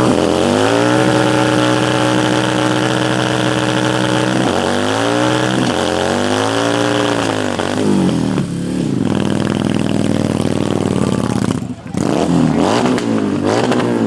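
Car engine revving hard: it climbs and holds at high revs for about three seconds, drops, then is blipped up and down several more times, with a brief break in the sound near the end.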